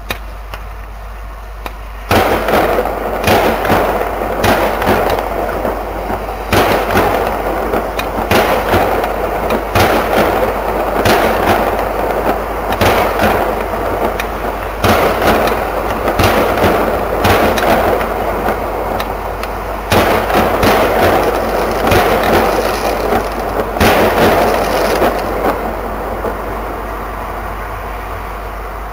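Fireworks going off: a dense run of sharp bangs and crackling that starts abruptly about two seconds in and dies away over the last few seconds.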